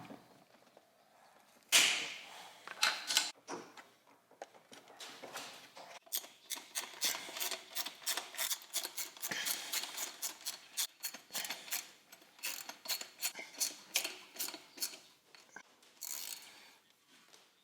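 Hand tools working on metal: a run of sharp clicks and clinks, coming close together through the middle.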